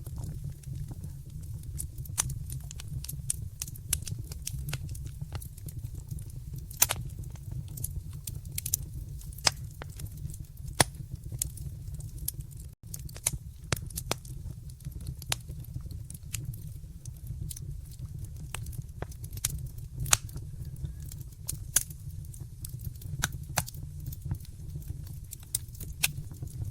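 Wood fire burning in a fireplace, crackling with many sharp, irregular pops over a low steady rumble. The sound cuts out for an instant about halfway through.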